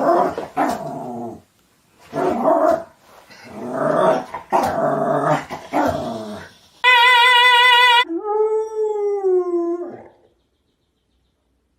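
A dog growling and yipping in loud bursts, then about seven seconds in a steady wavering tone for about a second, followed by a drawn-out falling howl-like note.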